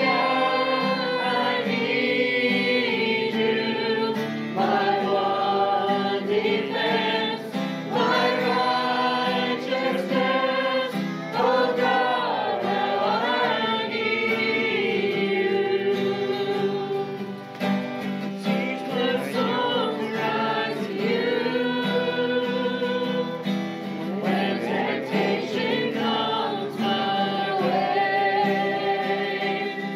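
Congregation singing a praise song in phrases with held notes, over steady instrumental accompaniment that may include guitar.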